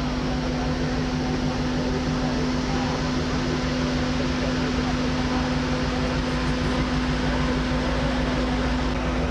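Steady shipboard machinery hum with one constant low tone under an even rush of noise, with faint voices in the background.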